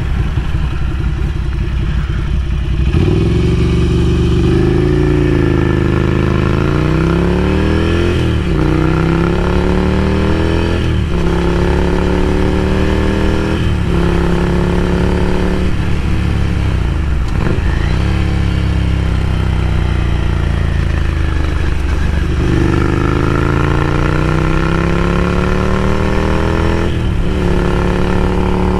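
Ducati Scrambler Café Racer's air-cooled 803 cc L-twin through a Vance & Hines slip-on exhaust, accelerating under way. The engine note climbs and drops sharply at each of about six gear changes, then holds steady near the end.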